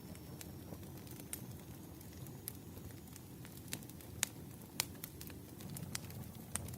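Firewood burning: irregular sharp crackles and pops over a low, steady rumble of flames, with the loudest pops about four and five seconds in.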